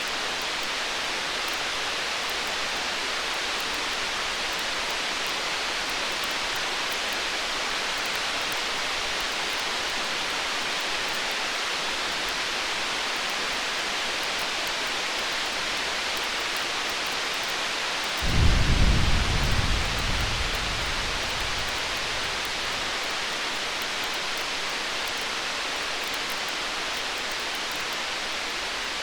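Distant thunder: one low rumble starts suddenly about two-thirds of the way in and dies away over a few seconds. Under it runs a steady rain-like hiss.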